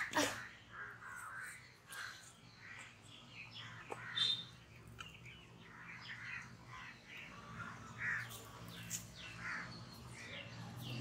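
Birds calling: scattered short calls throughout, with a faint click about four seconds in.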